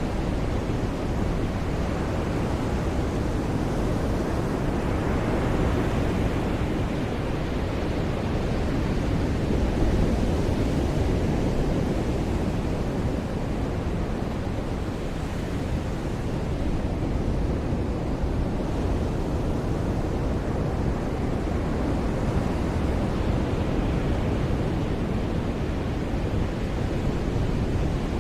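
Ocean surf washing onto a beach: a steady rush of breaking waves that swells and eases slowly every several seconds.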